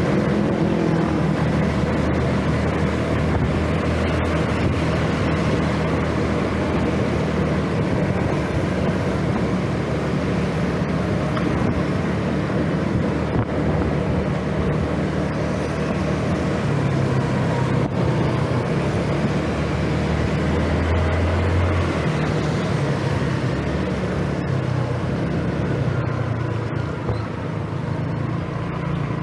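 Scooter engine running while riding, its low note rising and falling with speed, under steady wind and road noise.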